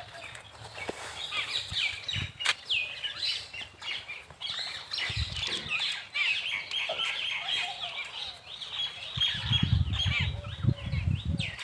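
Many small birds chirping busily, with dense overlapping high chirps. From about nine seconds in, low rumbling thuds sound underneath.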